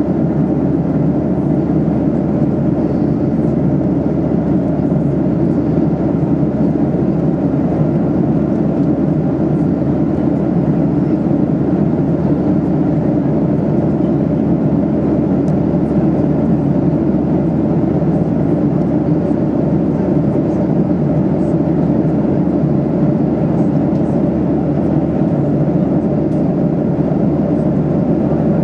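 Steady in-cabin drone of a Boeing 737-800 in cruise: its CFM56 engines and the airflow over the fuselage, heard from a window seat as an even, unchanging roar.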